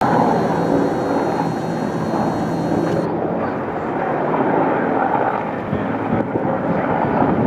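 Firefighting helicopter running, a steady heavy noise of engine and rotor with a high turbine whine that cuts off about three seconds in.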